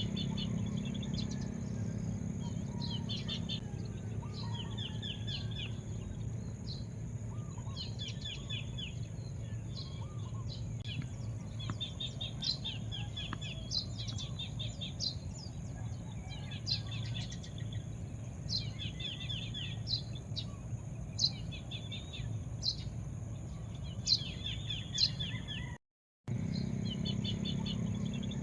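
Small birds chirping: short, quickly repeated high chirps and trills, one after another, over a steady low rumble and a constant high hiss. The sound cuts out completely for a split second about 26 seconds in.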